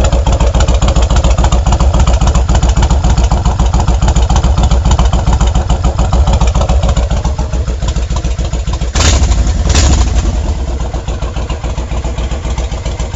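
Kawasaki Vulcan 1500 Classic V-twin idling through 3-inch HardKrome exhaust pipes fitted with spiral baffles, a steady run of exhaust pulses. About nine seconds in it is blipped twice, short louder surges, before settling back to idle.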